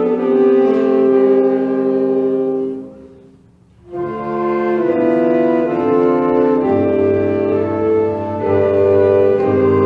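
A wind band playing, with held brass chords; the music breaks off briefly about three seconds in and comes back in full about a second later.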